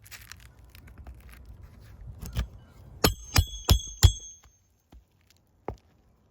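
Hammer driving a nail: four quick, sharp strikes with a metallic ring, coming about halfway through. They follow faint scraping and one duller knock.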